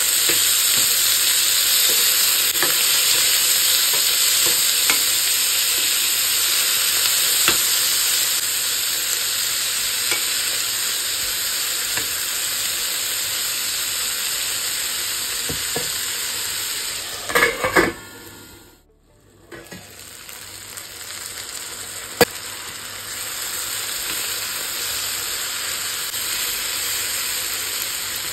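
Chopped onions and tomatoes sizzling in a stainless-steel pan while a metal spoon stirs them, scraping and tapping against the pan. About two-thirds of the way through there are a few louder taps, then a brief drop to near silence, after which the sizzling returns more quietly.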